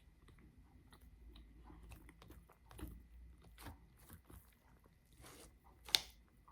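A person chewing a mouthful of Japanese cake close to the microphone: soft, wet mouth sounds and small clicks, with one sharper click about six seconds in.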